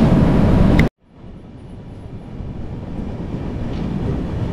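Kirandul Express train running noise, which breaks off suddenly about a second in, then comes back quieter and grows steadily louder.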